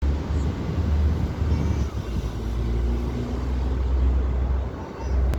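Wind buffeting the microphone: a loud, uneven low rumble that briefly drops out twice, with a few faint high chirps.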